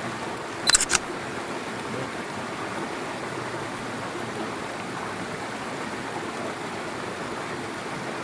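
Steady rush of a stream's running water. Two or three brief sharp clicks or knocks stand out just under a second in.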